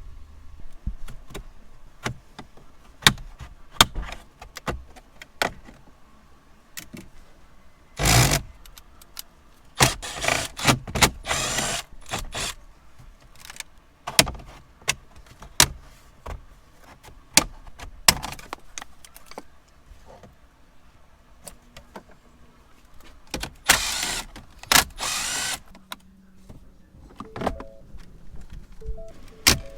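Tools and parts being handled: a string of sharp clicks and knocks, with a few longer scraping or whirring noises about eight, ten to twelve and twenty-four seconds in.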